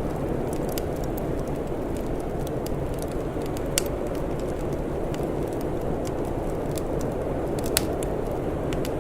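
Wood fire crackling, with scattered sharp pops (two louder ones about four and eight seconds in), over a steady low rushing noise.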